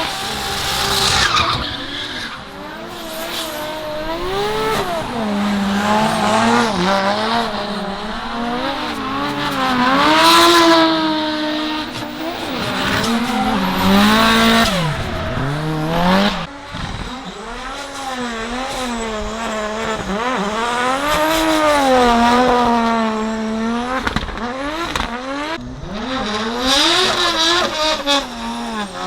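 Drift cars' engines revving hard on a wet track, their pitch swinging up and down as the throttle is worked through the slides. Bursts of tyre noise come and go.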